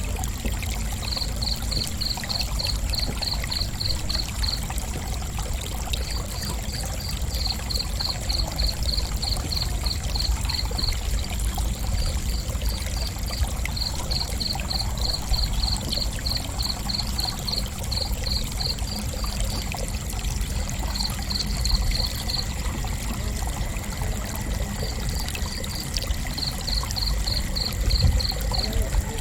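Crickets chirping: a high pulsed chirp in runs of a few seconds with short pauses between, over a steady high whine and a constant low rumble.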